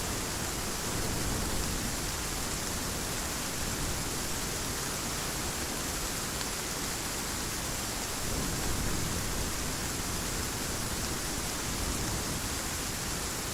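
Heavy rain falling steadily, a dense even rush of noise.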